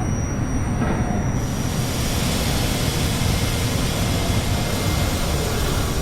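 R68A subway train running between stations: steady rumble of wheels on rail and traction motors, with a hissing rush that grows louder about a second and a half in.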